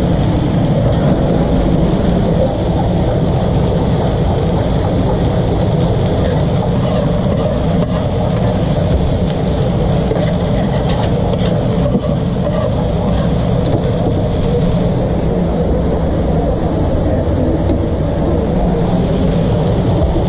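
A steady, loud mechanical drone with a low rumble and a hiss, unchanging throughout.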